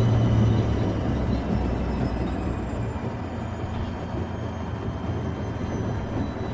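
Steady mechanical running and rumbling with a faint high whine that slowly falls in pitch, typical of a small toy vehicle motor; a low hum underneath drops away about a second in.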